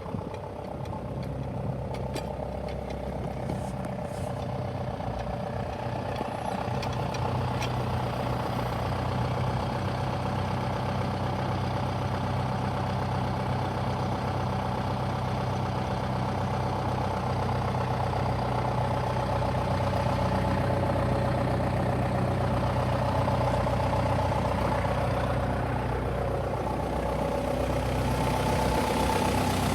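John Deere 6420 tractor's diesel engine idling steadily, growing gradually louder.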